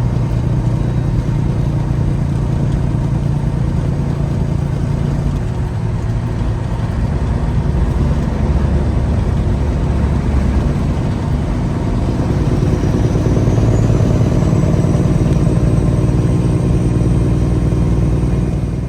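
Peterbilt 359 dump truck's diesel engine running steadily, as heard from inside the cab. It pulls harder and gets somewhat louder about two-thirds of the way through, with a faint rising whine.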